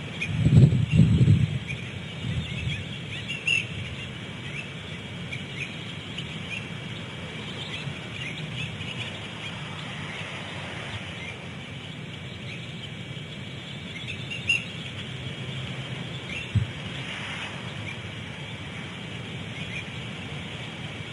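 Birds giving short, high chirping calls here and there over a steady outdoor hiss. A cluster of loud low thumps comes about a second in, and a single sharp low knock comes later.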